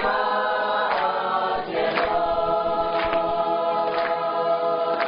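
A choir singing in parts, settling about two seconds in onto one long held chord, with a light stroke marking the beat about once a second.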